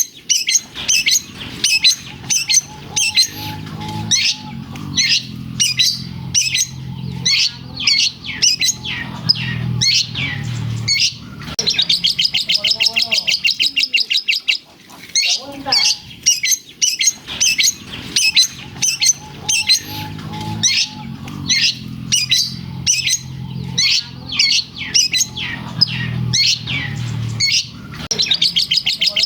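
Long-tailed shrike (cendet) singing loudly in a dense string of sharp, rapid chirps, its song filled with lovebird-like calls. A fast rattling trill comes about twelve seconds in and again near the end, over a low hum at times.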